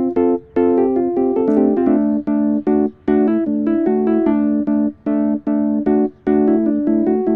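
Piano music: a steady stream of quickly repeated notes and chords, broken by short pauses about once a second.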